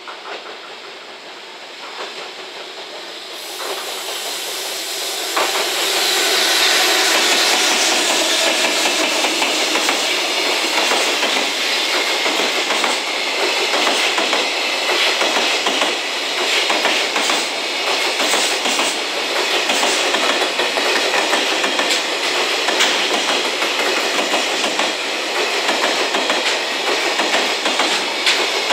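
Container freight train hauled by EF210 electric locomotives approaching and passing close by. It grows louder over the first five or six seconds, then holds a steady rushing noise with a rapid clickety-clack of the wagons' wheels.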